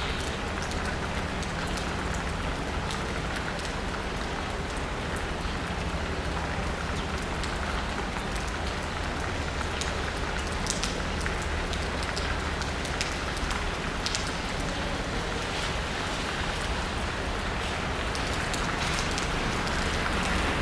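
Steady rain pattering on asphalt and rooftops, with individual drops ticking close by. A steady low hum runs underneath.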